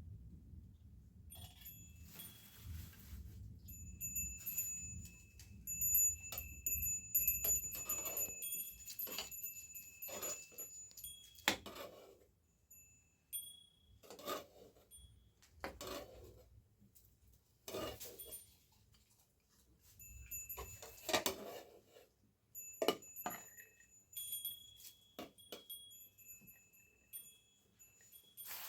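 Small metal bells ringing on and off with clear high tones, mixed with scattered knocks and clicks.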